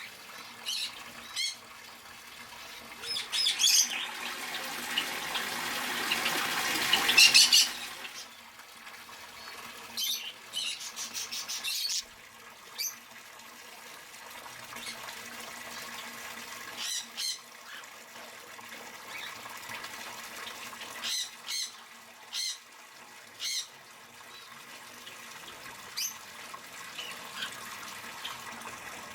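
Pet aviary birds calling in short, sharp squawks and chirps scattered throughout. From about 3 to 7.5 seconds in, a dense rushing noise runs under the calls.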